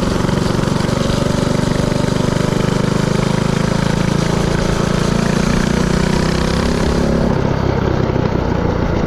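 Predator 224cc single-cylinder four-stroke engine of a mini-bike running steadily under way, its exhaust pulsing evenly at a fairly constant pitch.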